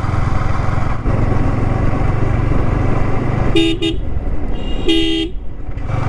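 A Yamaha R15 V3's single-cylinder engine running steadily under way. A horn gives two quick short toots about three and a half seconds in, then one longer toot about five seconds in.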